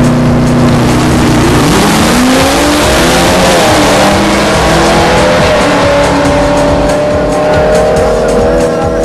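Racing engine held at high revs, then rising in pitch about two seconds in as it accelerates away, with a loud steady hiss under it.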